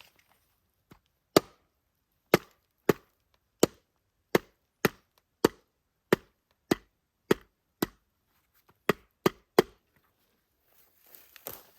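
Wood being chopped by hand: about fourteen sharp strikes, roughly two a second, with a short pause about eight seconds in. A soft rustle follows near the end.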